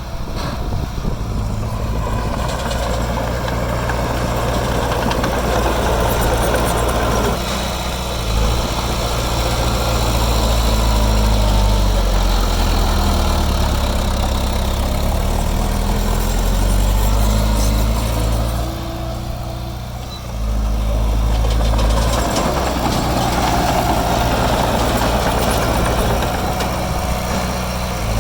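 Heavy diesel engine of construction machinery running steadily, its engine note rising and falling as the load changes. It drops briefly about two-thirds of the way through, then comes back up.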